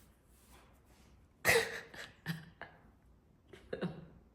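Short wordless vocal sounds from a woman. A loud one comes about a second and a half in, and two or three softer ones follow.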